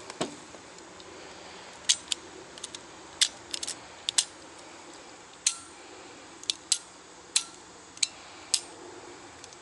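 Sharp metallic clicks and snaps of hand tools working on a circuit breaker and its wire connections, about fifteen at uneven intervals, some in quick pairs.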